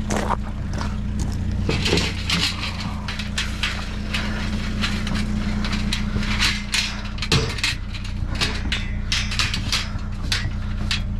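A vehicle engine idling with a steady low hum, under a run of irregular knocks, clanks and rattles from scrap being handled and tied down on a truck bed.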